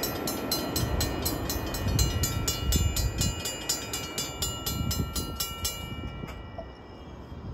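A Capitol Corridor passenger train rumbles past a railroad grade crossing while the crossing's warning bell rings with rapid, evenly spaced strikes. The train's rumble fades after about three seconds. The bell cuts off about six seconds in as the crossing clears.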